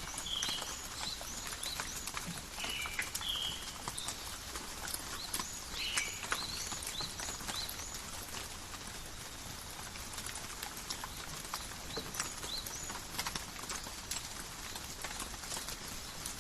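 Steady light rain in a forest, a hiss scattered with many separate drop ticks. A bird gives short high chirps several times, mostly in the first half.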